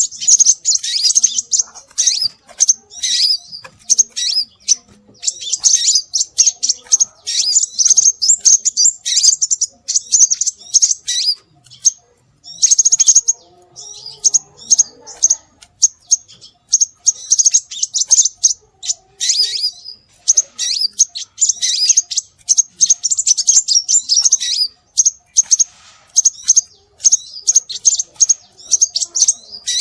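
Rapid, high-pitched chirping and twittering of small birds, a bird-luring track of scarlet minivet calls, in dense near-continuous bursts with short lulls around twelve and twenty seconds in.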